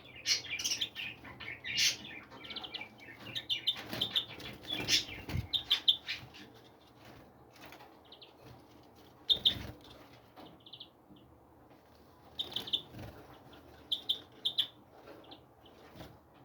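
Small birds chirping in short repeated calls, with quick fluttering wingbeats; busy for the first several seconds, then sparser chirps.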